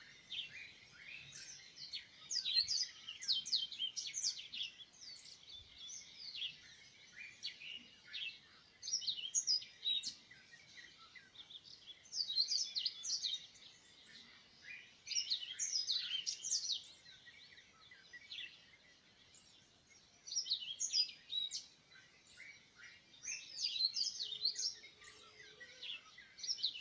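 Small birds chirping and twittering: rapid runs of short, high chirps come in clusters every few seconds, with brief lulls between.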